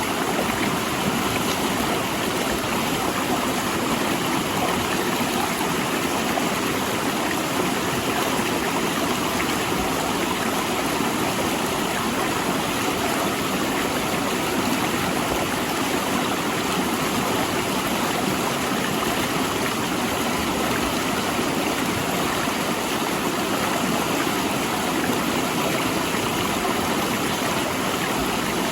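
A fast, rocky river rushing between large boulders: a steady, even rush of water.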